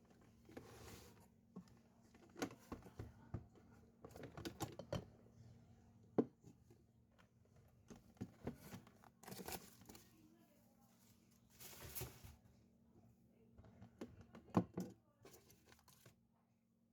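Irregular handling noises: crinkling and tearing with scattered clicks and knocks, over a faint steady low hum.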